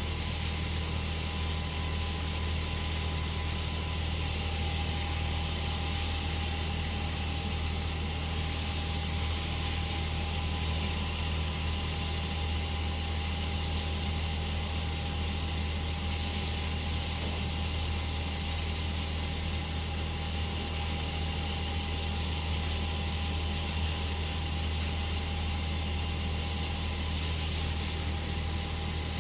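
A steady low mechanical drone with two faint, thin whines above it.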